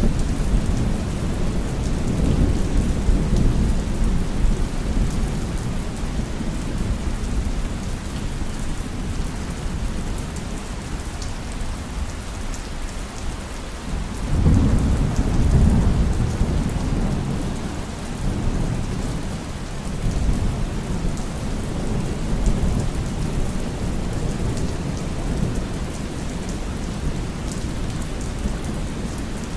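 Heavy rain falling steadily, with low rolling thunder rumbling underneath; the thunder swells up strongly about halfway through and again more softly a little later.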